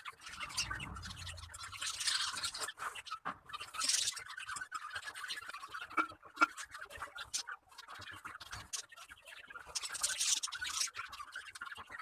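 Finches building a nest: dry rustling and scratching of nesting material, with many small clicks and taps.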